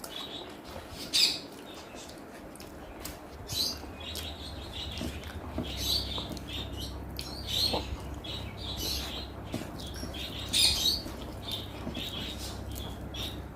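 Close-up eating sounds: chewing and wet lip-smacking in irregular short smacks, a few of them louder.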